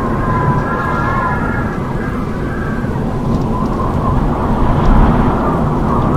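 Howling wind: a steady, heavy low rumble with thin whistling tones that waver up and down in pitch, swelling and fading.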